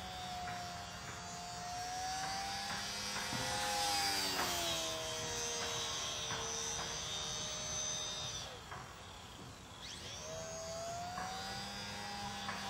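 Electric motor and propeller of an Extra 330L 3D RC aerobatic plane whining in flight, its pitch rising and falling with throttle and passes. Near the end the throttle is cut and the whine drops away, then comes back up about a second and a half later.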